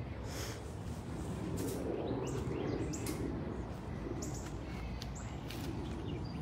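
Birds chirping in short high calls, scattered through the middle and latter part, over a steady outdoor background noise.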